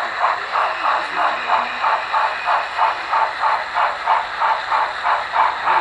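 Model steam locomotive's sound unit chuffing steadily, an even hissing beat of about four chuffs a second.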